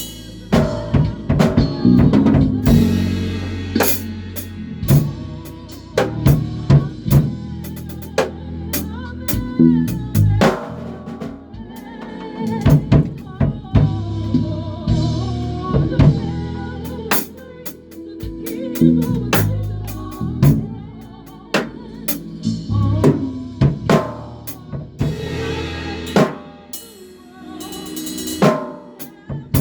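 A band playing live in rehearsal: a drum kit hitting kick, snare and rimshots over a bass guitar line of sustained low notes, with other pitched instruments above.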